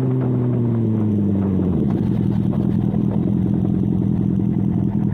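Sport motorcycle engine with its revs falling over the first two seconds as the bike slows, then settling into a steady, lower, choppy running note.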